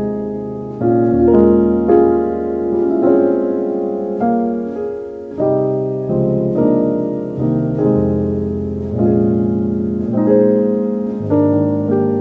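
Slow, gentle piano music: sustained chords and single notes struck every second or so, each ringing out and fading before the next.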